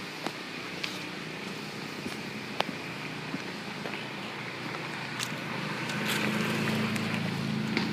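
A steady low engine hum that swells and gets louder about six seconds in, over outdoor background noise with scattered sharp ticks.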